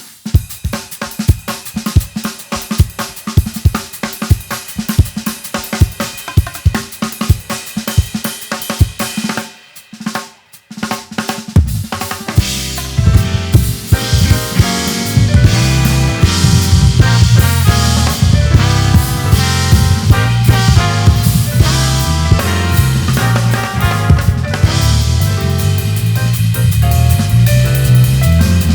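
Live band music: a drum kit plays a groove alone for about nine seconds, stops briefly, then the full band comes in with a heavy bass line and keys over the drums.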